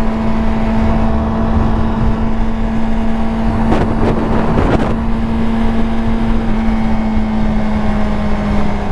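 Yamaha R6 sport motorcycle's inline-four engine running at a steady cruise, with one even tone over a low rumble. A brief rush of noise about four seconds in.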